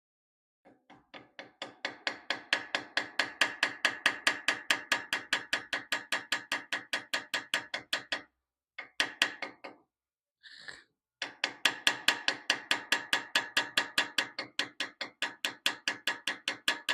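Small hammer tapping rapidly and evenly on metal, about five light ringing strikes a second, driving copper inlay into dovetail grooves in a wrought-iron sword cross-guard. The tapping stops for a few seconds about eight seconds in, then starts again.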